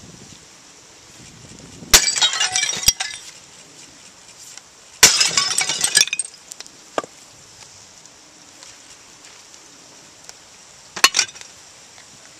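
Porcelain toilet being smashed: three hard blows, about two seconds in, about five seconds in and near the end. Each of the first two is followed by about a second of shattering and clinking pieces; the last is short.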